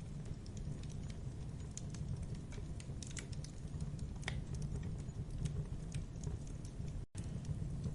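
Campfire burning: a steady low rumble with irregular crackles and pops of the burning wood, the sharpest pop about four seconds in. The sound cuts out for an instant about seven seconds in.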